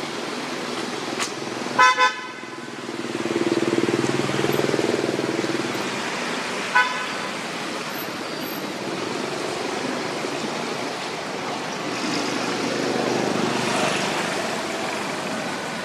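Vehicle horn giving two short toots in quick succession, then one more brief toot a few seconds later. Steady road traffic noise runs underneath, swelling twice as vehicles pass.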